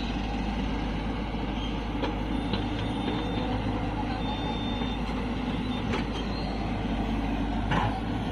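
Diesel engines of a hydraulic excavator and tractors running steadily, with a few short sharp clanks.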